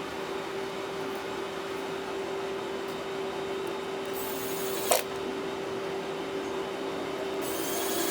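Tablet disassembly work: two short scrapes, each ending in a sharp click, about five seconds in and near the end, over a steady electrical hum with one constant pitch.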